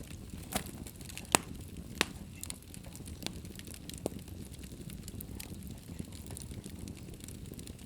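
Wood fire crackling in a fireplace: a low steady rush of flames with scattered sharp pops, the loudest a little over a second in and at about two seconds, then smaller snaps.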